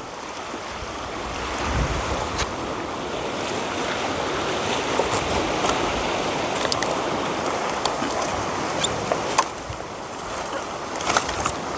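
Sea waves washing onto the shore: a steady rushing noise that swells a couple of seconds in and eases off near the end, with a few faint clicks over it.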